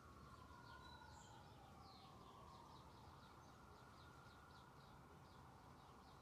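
Faint outdoor background: a small bird chirps in quick short notes, about three or four a second, from about two seconds in. Under it runs a faint tone that wavers slowly up and down in pitch, over a low wind rumble.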